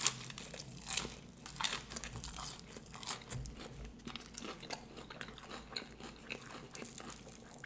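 Close-miked chewing of battered fried fish and chips: a string of small, irregular crunches and wet mouth clicks.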